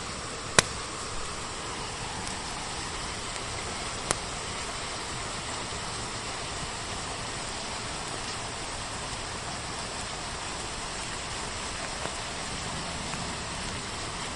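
Steady rain hiss with a wood fire crackling over it: a sharp pop about half a second in, another around four seconds in, and a few faint crackles later.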